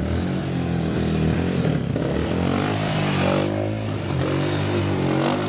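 Dirt bike engine running close by, starting abruptly and holding a steady, slightly wavering pitch.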